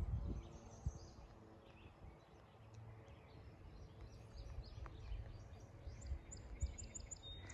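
Faint birdsong, with a run of quick, high repeated chirps near the end, over a low rumble of wind or microphone handling and a few soft knocks.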